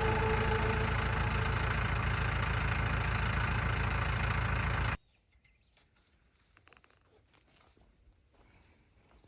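A vehicle engine running steadily with a low, even pulse. It cuts off abruptly about five seconds in, leaving only faint small clicks and rustles.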